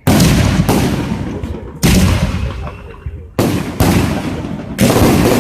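Fireworks going off: about six sharp bangs in quick succession, each trailing off in a rumbling echo.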